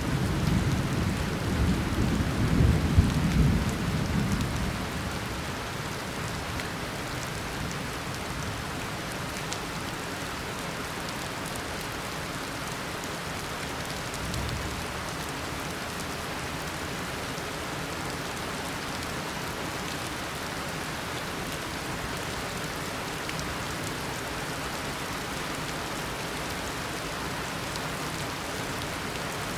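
Tropical rainstorm: a steady, heavy downpour with a roll of thunder that rumbles through the first few seconds and dies away. A faint low rumble of thunder comes again about halfway through.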